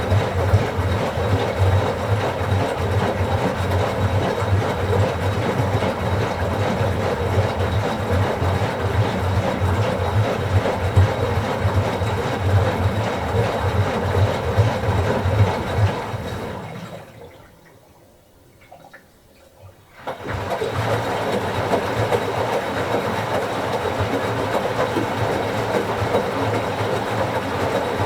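Washing machine in its wash cycle: the drum turns with water and laundry sloshing in a steady, pulsing rhythm. Just past the halfway point it winds down over about a second and goes quiet for some three seconds, then starts up again suddenly, the drum pausing between turns as a wash cycle does.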